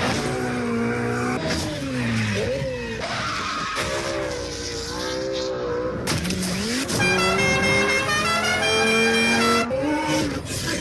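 Rally car engine revving hard, its pitch climbing and dropping through gear changes, with tyres skidding. About six seconds in comes a sudden loud burst of noise, then a high engine pitch stepping up and down.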